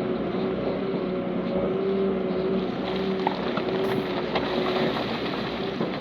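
Diesel engine of heavy earthmoving machinery running steadily, with a few short knocks over the drone.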